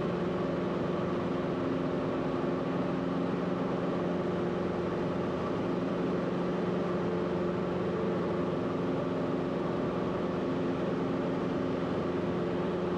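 Cabin noise of a Cessna 172RG Cutlass in the climb-out after takeoff: its four-cylinder Lycoming engine and propeller giving a steady, unchanging drone with a constant low hum.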